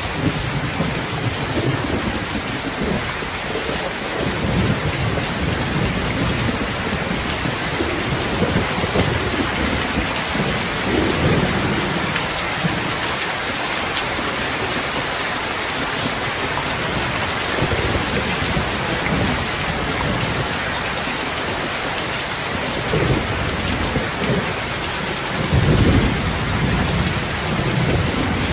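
Heavy rain falling steadily, with low rolling thunder swelling and fading again and again, loudest near the end.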